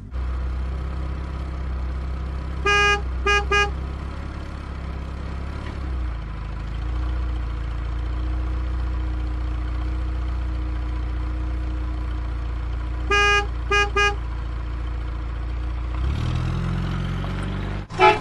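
Steady low vehicle engine rumble with a horn tooting three times in quick succession, twice, about ten seconds apart.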